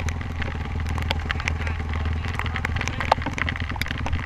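Honda CRF450R dirt bike's single-cylinder four-stroke engine running steadily, with scattered sharp clicks and taps over it.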